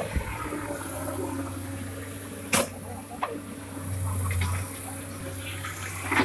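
Dump truck engine running with a steady low hum under a rushing noise, with a sharp knock about two and a half seconds in and a few lighter clicks.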